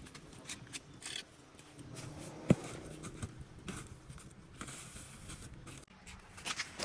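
Light clicks, taps and scrapes of small tools and hard plastic and metal phone parts being handled, with one sharp click about two and a half seconds in.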